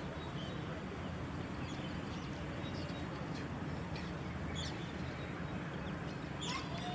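Scattered short bird chirps and calls over a steady low hum, with a louder falling call and a few whistled notes about six and a half seconds in.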